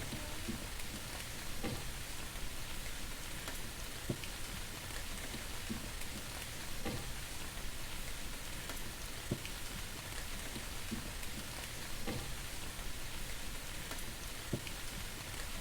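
A steady hiss with faint, scattered ticks about once a second.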